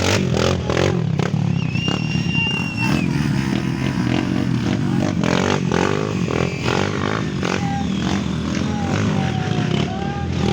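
Off-road trail motorcycle engines running and revving, with scattered clattering.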